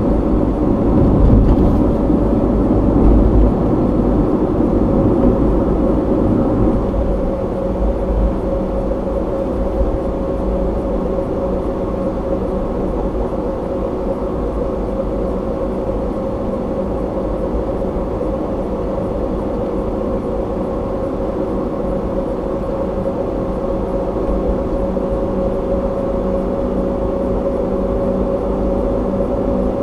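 A car driving, with steady road and engine noise heard from inside the cabin. The low rumble is heavier for the first several seconds, then evens out.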